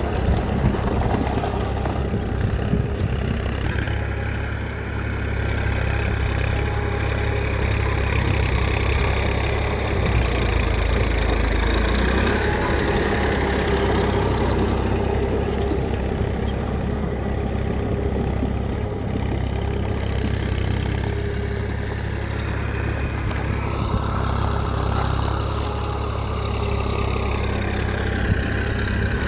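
A mini tractor's engine running steadily at idle with a continuous low hum.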